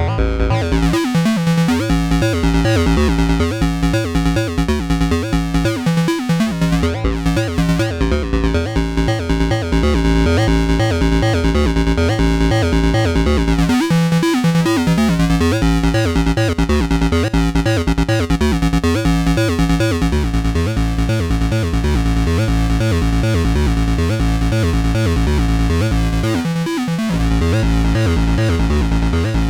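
Electronic music played on synthesizers, the Behringer Neutron analog synth and a Donner B1 bass synth: a fast sequenced, pulsing bass line under synth tones, with a short dip in the bass near the end.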